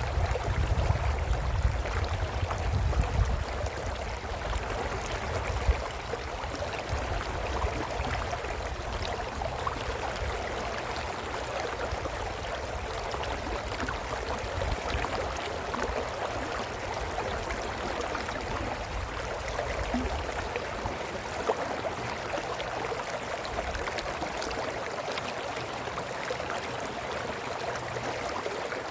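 A small brook running over stones, a steady gurgle and splash, with low rumbling gusts in the first few seconds.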